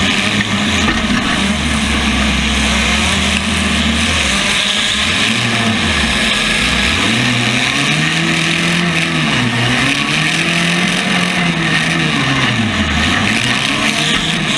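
Compact demolition-derby car engines running loudly, one revving up and down several times in the second half over a dense steady engine din.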